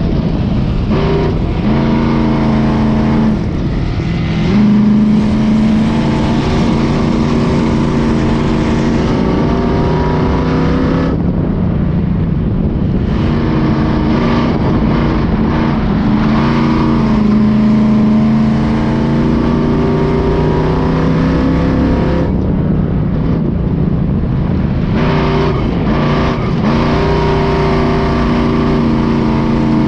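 Truck engine racing hard in a democross heat, its pitch climbing under throttle and dropping back several times as it lifts off and accelerates again, with a steady low rumble throughout.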